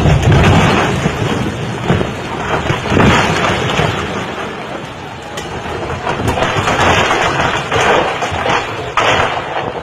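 A house collapsing into floodwater: a sudden loud, low rumble at the start, then noisy crashing and rushing that rises and falls in several surges.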